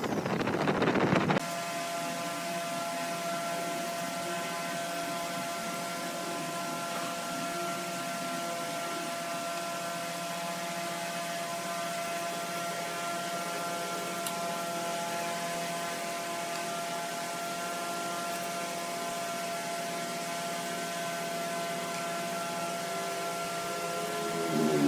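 A wood lathe's motor running steadily, giving a hum with a fixed whine and no cutting. Just before it, for about the first second and a half, there is loud scraping noise from a tool on the turning wood, which stops abruptly.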